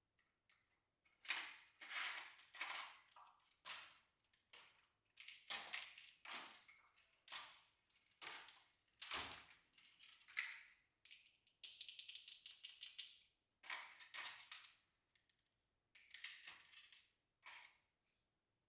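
Slime being squished and pressed by hand: a series of irregular wet, crackly popping squishes about a second apart, with denser runs of rapid crackling about two-thirds of the way through and again near the end.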